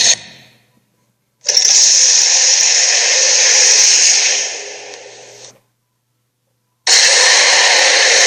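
Harsh, rasping creature sound effects in two bursts. The first starts suddenly about a second in and fades away over several seconds; the second starts abruptly near the end after a short silence.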